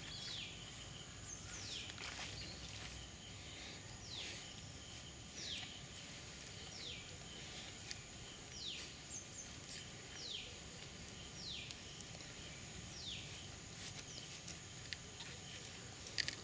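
A bird repeating a short, high, down-slurred call about every second and a half, over a faint steady high-pitched tone.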